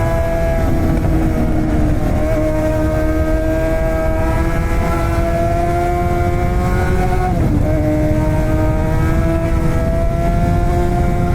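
Suzuki GSX-R600 K7 inline-four on a straight-piped exhaust with no cat, pulling steadily with its pitch slowly rising. About seven and a half seconds in the note drops for a gear change, then climbs again. Heavy wind noise sits underneath.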